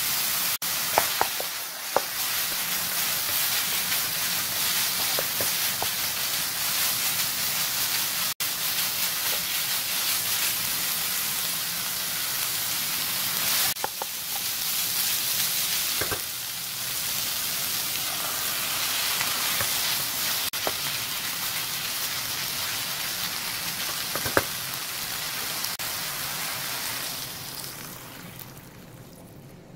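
Ground pork, onion and king oyster mushroom sizzling in chili oil in a non-stick frying pan as they are stir-fried with a wooden spatula, with a few sharp knocks of the spatula against the pan. Near the end the sizzle dies down as water is poured in.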